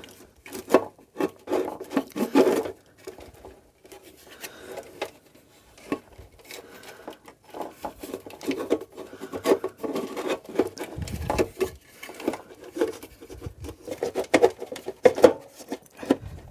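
Handling noises as a part is worked and squeezed back into a motorcycle frame: irregular rubbing, scraping and light knocks of rubber, plastic and metal parts against each other.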